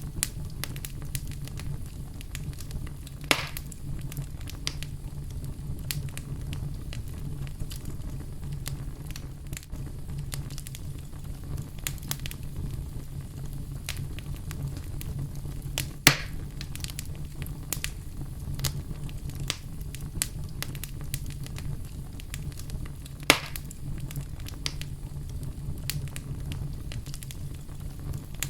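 Fire in a fireplace crackling steadily over a low, even rumble, with a scatter of small ticks and three louder pops spread through.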